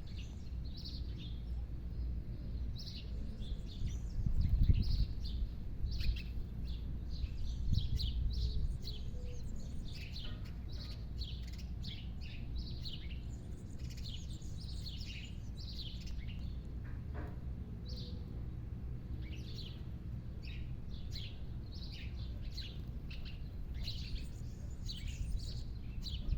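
Birds chirping: many short, quick calls, often overlapping, over a steady low rumble that swells briefly a few seconds in.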